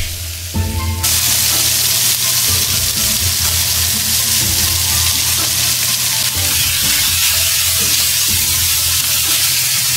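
Pork belly and vegetables sizzling loudly in hot rendered pork fat in a frying pan while being stir-fried. The sizzle jumps up about a second in and stays loud and steady.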